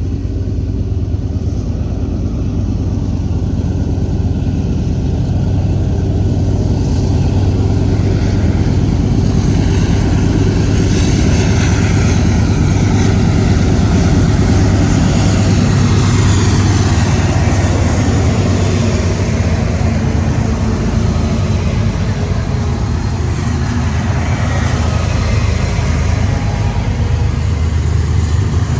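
Diesel freight locomotives running with a steady deep engine drone.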